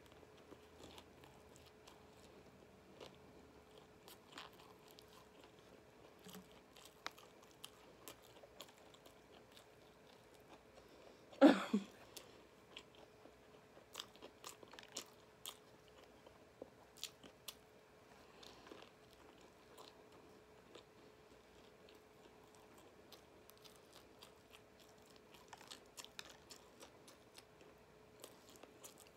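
A person biting into and chewing a KFC fried chicken slider, with many small mouth clicks throughout. About eleven seconds in comes one brief, loud voice-like sound from the eater.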